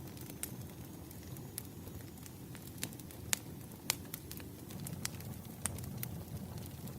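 Wood fire crackling: irregular sharp pops and snaps over a low, steady rumble of burning logs, with two louder pops a little past the middle.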